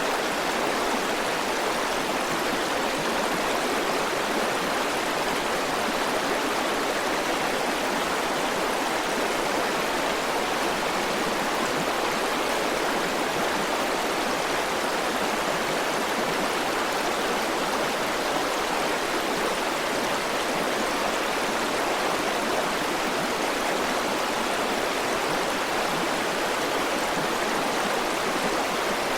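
A river's flowing water running in a steady, even rush, with no change throughout.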